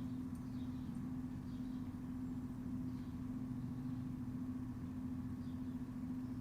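Steady low mechanical hum with a constant drone over a low rumble, and faint high chirps about once a second.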